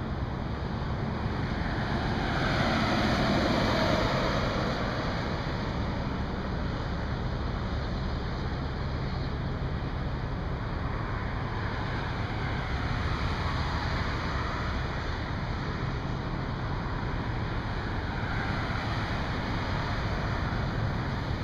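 Steady hiss of highway traffic, with a vehicle passing close about three seconds in, its tyre noise falling in pitch as it goes by, and fainter passes near the middle and near the end.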